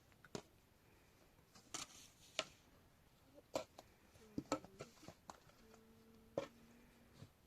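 Scattered light clicks and knocks, as of objects being handled, with a faint steady tone held for about a second and a half near the end.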